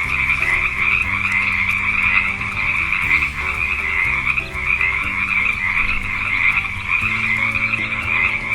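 Frogs croaking in a steady, unbroken chorus.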